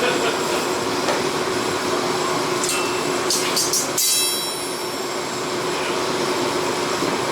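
Steady roar of workshop machinery with a constant low hum. About four seconds in there is a sharp metallic clink that rings briefly, with a few short high-pitched scrapes just before it.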